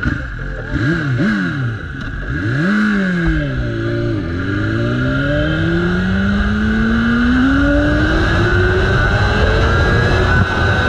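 Motorcycle engine revved twice, its pitch rising and falling quickly, then climbing steadily for several seconds as it accelerates.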